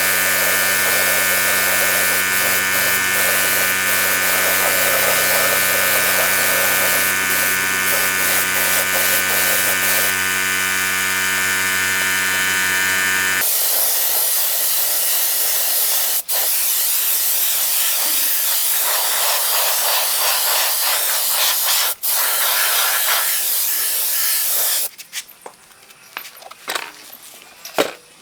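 A small electric power tool's motor runs steadily with a buzzing, multi-tone whine. About halfway through it cuts off abruptly and a steady spraying hiss takes over, broken into short on-off bursts near the end.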